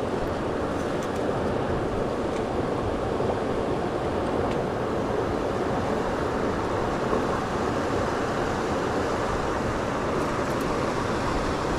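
Steady rush of flowing river water, an even noise with no breaks or distinct events.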